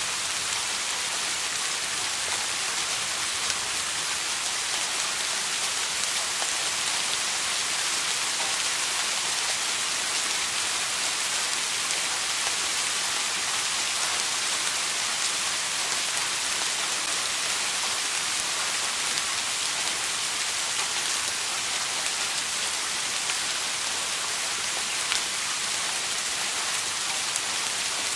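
Steady rain falling, an even hiss with faint drop ticks and no thunder.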